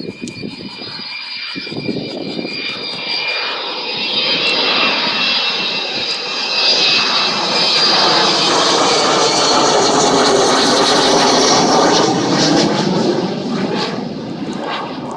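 Avro Vulcan bomber's four Rolls-Royce Olympus jet engines as it flies low past: a broad jet rumble with a steady high whine that swells, is loudest through the middle and latter part, and falls away near the end.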